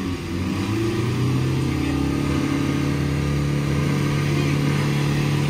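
Car engines revved up for a drag-race launch: the pitch climbs over the first second, then is held steady at high revs.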